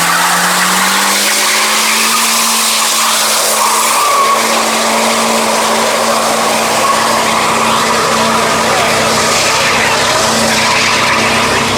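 A car doing a burnout: the engine is held at steady high revs while the spinning tyres screech continuously.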